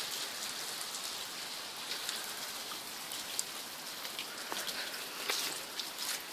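Water dripping off the trees: a steady patter of drops with scattered sharper drips, a couple of them louder, one about five seconds in.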